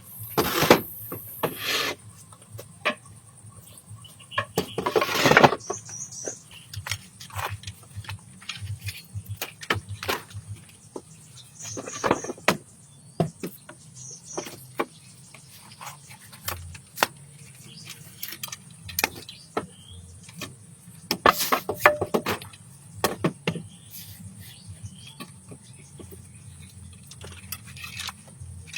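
Irregular knocks, taps and short scraping noises of hand-tool work, with a few louder rasping bursts, over a steady high insect drone.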